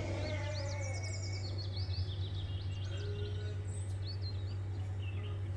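Small birds chirping in quick, high, short notes, busiest in the first few seconds, over a steady low hum.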